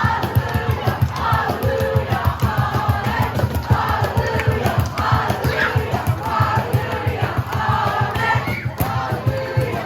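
A group of people singing a lively worship song together, over a fast, steady beat.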